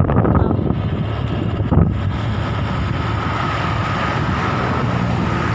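A vehicle running steadily with wind buffeting the microphone, and a single knock about two seconds in.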